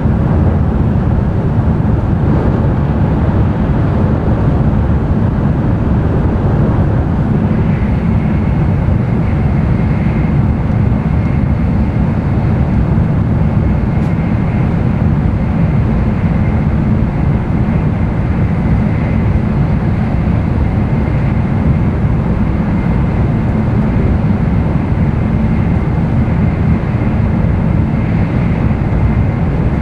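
N700-series Shinkansen running noise heard inside the passenger cabin: a loud, steady low rumble of wheels, track and air. A thin, steady high tone joins the rumble about eight seconds in and holds.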